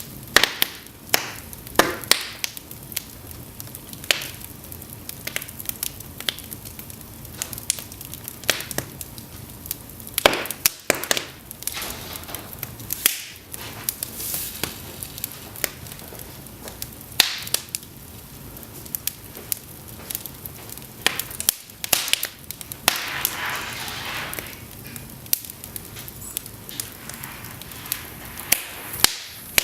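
Cedar logs burning in an open fireplace: irregular sharp snaps, crackles and pops over a steady low hiss of flame, with a brief hissing swell a little after the middle.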